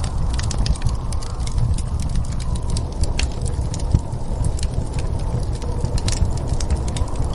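Wood fire crackling with irregular sharp pops and snaps over a steady low rumble of wind.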